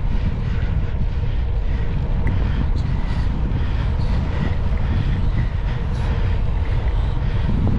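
Steady low rumble of wind buffeting the microphone on a moving bicycle, mixed with the bike's own riding noise.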